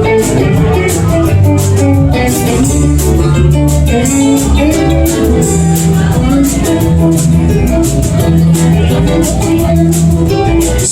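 Live band playing an instrumental passage with no singing: guitar lines over a bass line and a steady beat.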